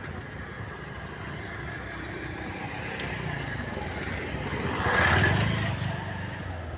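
A road vehicle passing by over steady outdoor background noise; it grows louder to a peak about five seconds in, then fades.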